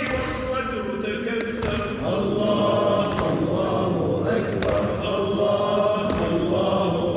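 Husseini latmiya: male voices chanting a mourning lament together in a steady melodic line, with a few sharp thumps among them.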